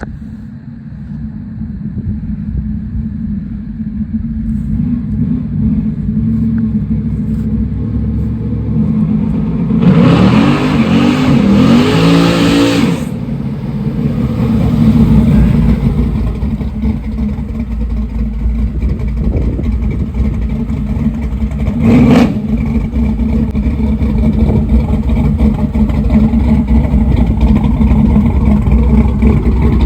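A car engine running and revving, with a loud surge of revs about ten seconds in and a single sharp knock later on.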